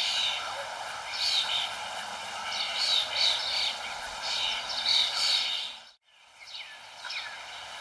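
Wild songbirds chirping in repeated short bursts over a steady background hiss. About six seconds in, the sound dips out abruptly for a moment, then quieter chirps resume.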